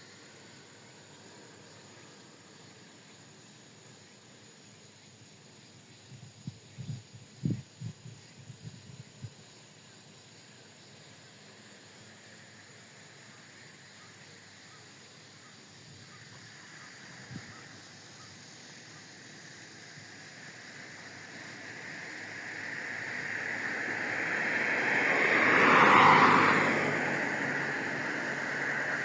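Airplane passing overhead: its engine noise swells over several seconds to a loud peak near the end, then eases off a little. A few low knocks come earlier, about six to nine seconds in.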